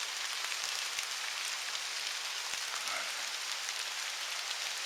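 Steady rain falling in the woods, an even hiss with scattered small drop ticks.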